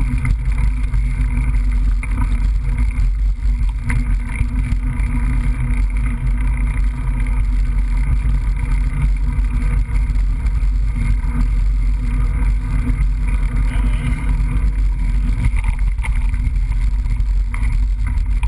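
Steady low rumble of wind buffeting and riding noise on a GoPro camera's microphone while riding a mountain bike.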